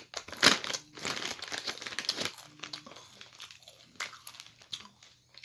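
Lay's chip bag crinkling as it is handled, most heavily in the first two seconds, then a few scattered crackles.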